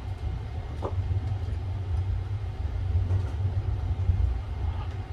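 Steady low rumble of the Sunrise Express 285-series electric sleeper train running on the rails, heard from inside a compartment, with one brief squeak about a second in.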